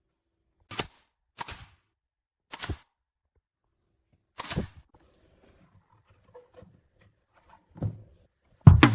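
Four sharp knocks spaced irregularly over the first half, then a softer, duller knock near the end, with silence between them; music with guitar and drums starts just before the end.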